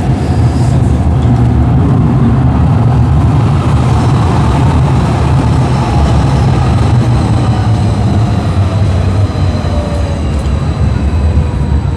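CTrain light-rail train pulling into the platform: a loud, steady rumble of wheels and motors with a faint high whine.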